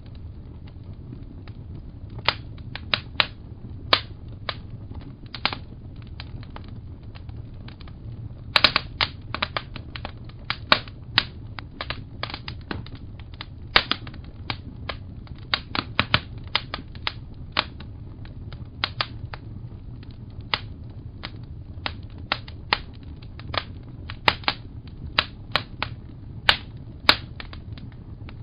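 Wood fire crackling: irregular sharp pops and crackles, sometimes in quick clusters, over a steady low rumble.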